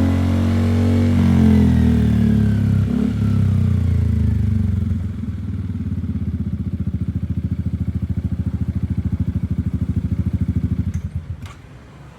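Yamaha XMAX scooter's single-cylinder engine through an aftermarket Salvator exhaust, with a bassy note. The revs fall back to a steady, pulsing idle, and the engine is switched off about eleven seconds in.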